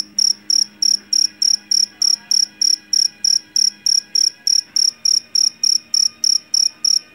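A jangkrik jeliteng (Javanese field cricket) calling close by: loud, shrill chirps repeated evenly at about three a second.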